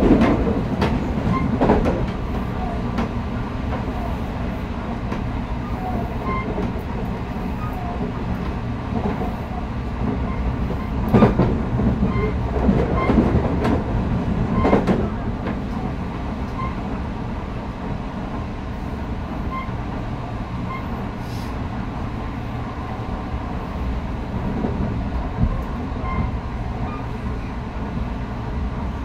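Running noise of an Odakyu Electric Railway train heard inside a passenger car: a steady rumble of wheels on rail, broken by a few louder clacks, the sharpest about eleven seconds in and another near fifteen.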